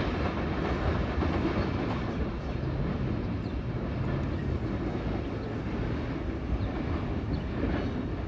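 A train rolling past, its wheels on the rails making a steady rumble with a few faint clicks.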